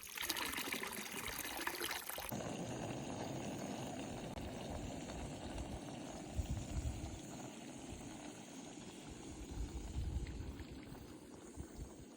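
Water flowing steadily, like a small stream, with a slight change in its sound about two seconds in.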